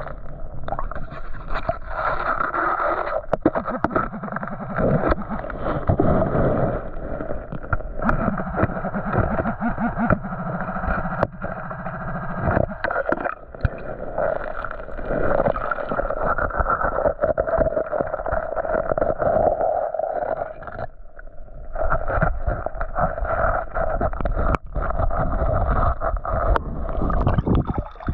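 Muffled creek water sloshing and gurgling, with scattered knocks and scrapes from wading and digging in the streambed. The sound briefly drops away about 21 seconds in.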